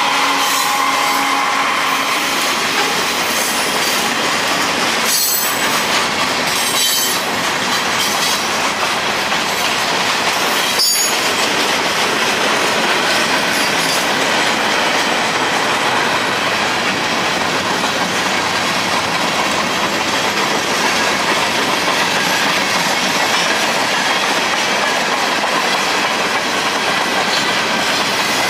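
Freight cars of a mixed-freight train rolling past at speed: a steady rush of steel wheels on rail. A few sharp knocks come about five, seven and eleven seconds in.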